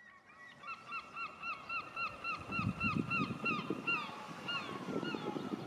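A bird calling over and over in short notes, about three a second, each note hooking downward in pitch. A low rumble comes in underneath about halfway through.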